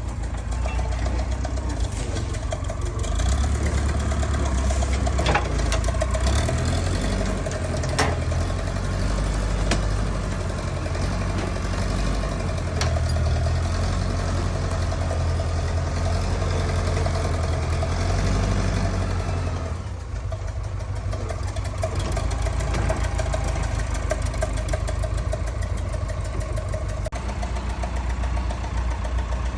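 An engine running steadily with a low rumble and a few sharp clicks. About two-thirds of the way through the rumble drops away briefly, then carries on.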